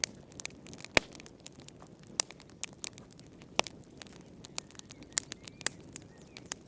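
Wood fire crackling in a fireplace: irregular sharp pops and snaps over a steady low rush, with the loudest pop about a second in.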